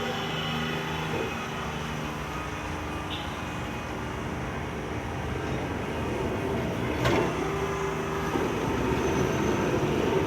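City tram running on its rails: a steady rumble with a hum of several steady tones, a single sharp clank about seven seconds in, then a louder, rougher wheel rumble toward the end.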